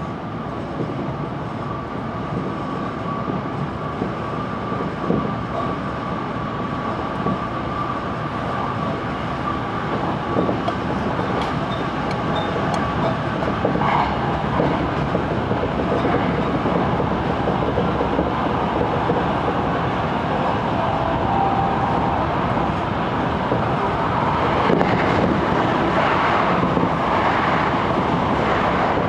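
Electric commuter train running on the line, heard from inside the driver's cab: a steady rumble of wheels on rail that grows louder as it goes. Near the end another train passes close by on the next track.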